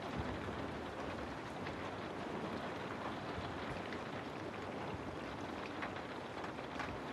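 Steady rain falling on a house, an even hiss with scattered individual drop ticks.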